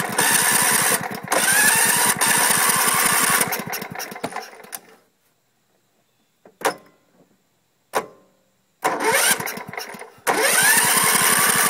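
Electric starter cranking a Husqvarna LTH140 lawn tractor's Kohler engine, which turns over but does not catch. It cranks for a few seconds and winds down, two short clicks follow in the quiet, then it cranks again. The uploader puts the no-start down to a failing ignition coil.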